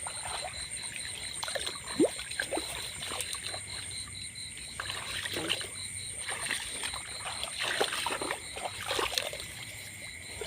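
Water sloshing and splashing in short irregular bursts, with a steady high-pitched pulsing trill underneath.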